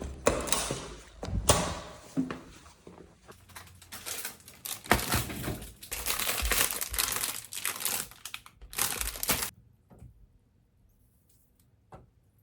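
Crinkling and rustling handling noise with scattered knocks, busiest in the second half, cutting off about nine and a half seconds in.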